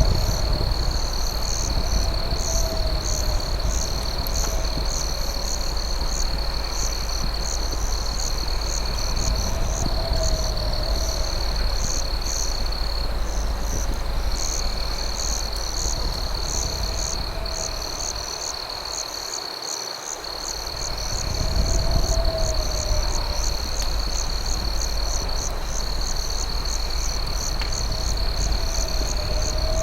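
Night chorus of crickets: a steady high trill with a faster pulsing chirp above it. A short, lower call comes back every few seconds, over a low rumble that dips for a moment about two-thirds of the way through.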